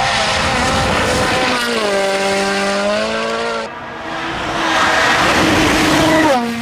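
Modified cars' engines revving under a loud noisy rush of exhaust, with the engine note dropping in pitch and then holding. The sound breaks off abruptly about halfway through and another car takes over, its revs falling away near the end.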